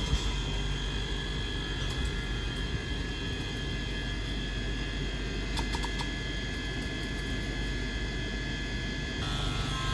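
Steady electrical hum with several high, steady whining tones, and a few faint clicks about six seconds in.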